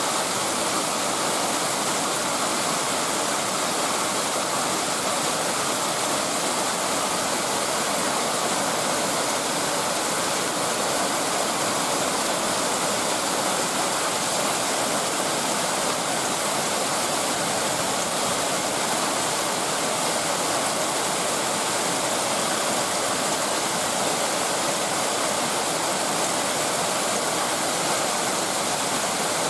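Heavy downpour of a thunderstorm, a steady, even rush of rain with no thunderclaps.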